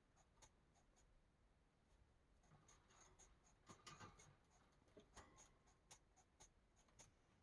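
Very faint strokes of a colouring marker on paper, with short scratches and small ticks as sections are filled in.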